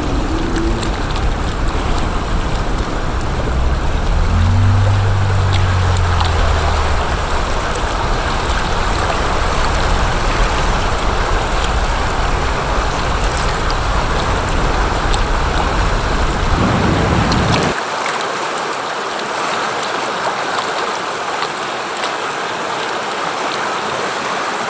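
Rushing, splashing river water around a kayak, mixed with a heavy low rumble that drops away suddenly about three-quarters of the way through.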